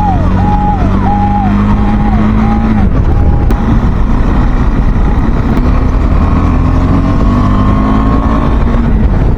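Motorcycle engine running at road speed with heavy wind noise, its pitch climbing slowly from about six seconds in as the bike speeds up. For the first three seconds or so another vehicle's electronic alarm repeats a short falling beep, then stops.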